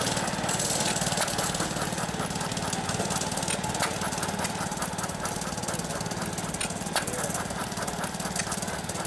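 Half-scale Fairbanks Morse Model T hit-and-miss engine running, with a rapid steady beat and scattered sharp clicks.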